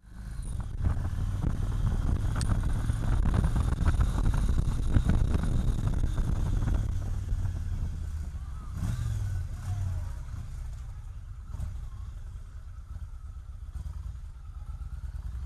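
Motorcycle engine running under way, louder for the first seven seconds or so, then settling lower.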